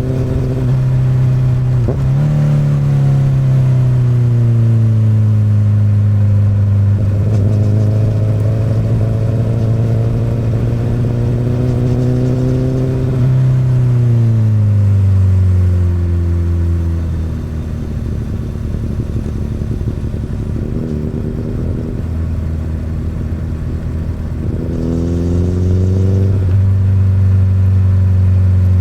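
2008 Honda CBR1000RR's inline-four engine running through an Akrapovic exhaust under way. The revs rise and fall with the throttle, drop to a quieter low note in the middle, then pick up again near the end.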